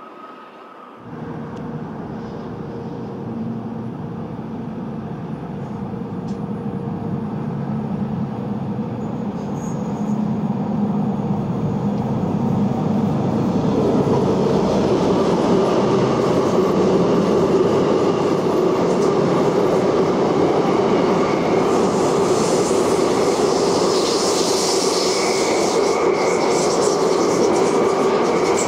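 Elizabeth line electric train approaching and running past in a cutting. The rumble builds steadily for over ten seconds, then holds loud and even, with a rising hiss of wheels on rail near the end.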